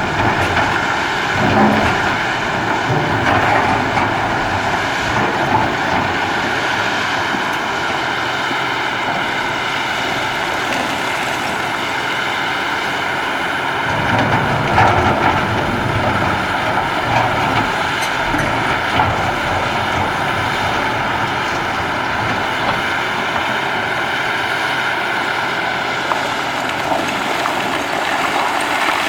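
Cat 6015B hydraulic mining excavator working: a steady, loud diesel engine drone with a high hydraulic whine, swelling briefly about halfway through.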